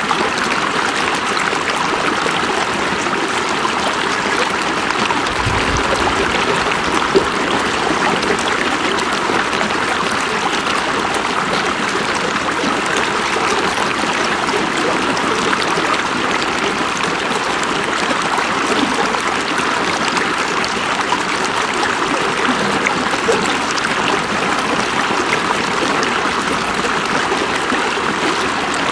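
River water flowing steadily over rocks, an even rushing and trickling with no breaks.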